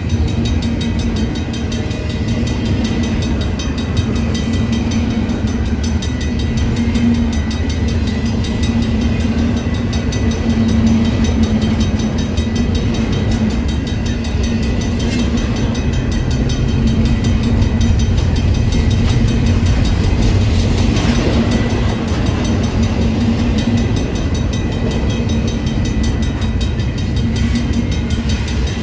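Union Pacific train's cars rolling past on the rails, a steady, continuous rumble of wheels on track.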